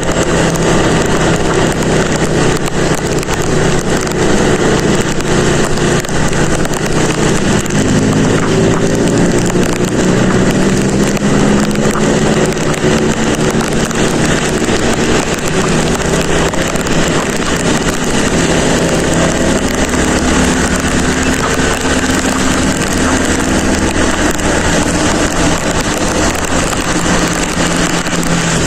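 Motorcycle engine running while riding, its pitch rising and falling with speed changes, under a steady rush of wind and road noise on the helmet or bike microphone.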